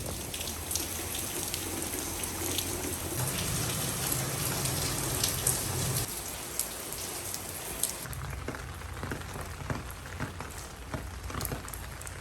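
Steady rain falling, with many individual drops ticking on a surface over a continuous wash of rainfall.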